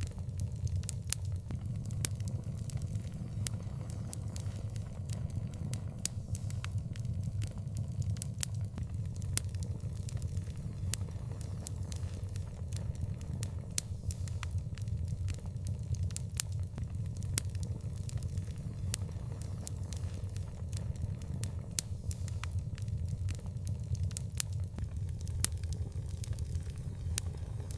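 Wood fire crackling and popping: frequent sharp, irregular pops over a steady low rumble of burning.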